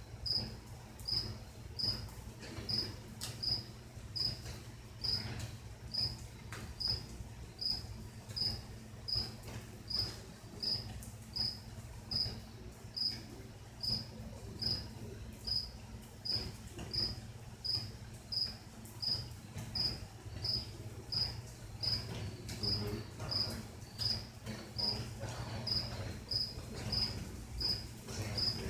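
A single cricket chirping steadily, short even chirps about three every two seconds, over a steady low hum.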